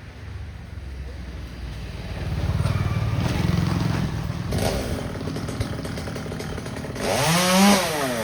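Traffic rumbling past on the road, then near the end a chainsaw revving up sharply and dropping back.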